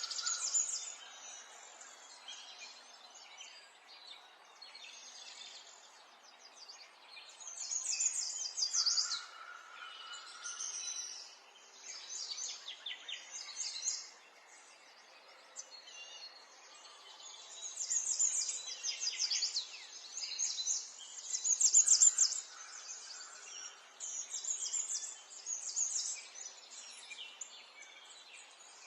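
Several small birds chirping and trilling in repeated bouts of rapid high notes over a faint steady background of outdoor ambience, with a few steady lower whistled notes in between.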